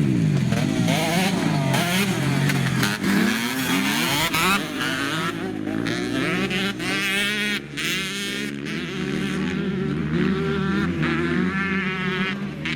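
Dirt bike engines revving, their pitch rising and falling again and again as the bikes ride and accelerate.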